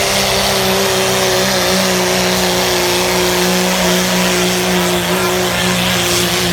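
Diesel pickup truck's engine running at full throttle under heavy load while it drags a weight sled, its pitch holding nearly steady with a small rise early on.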